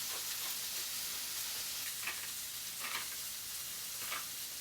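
Teriyaki-marinated chicken pieces sizzling steadily in a hot pan, with a few faint short sounds about two, three and four seconds in.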